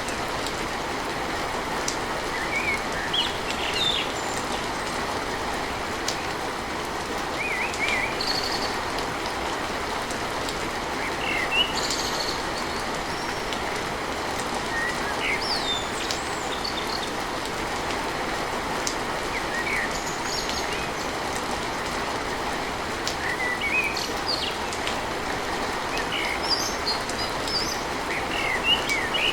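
Steady rain falling on a tin roof, with a bird chirping now and then.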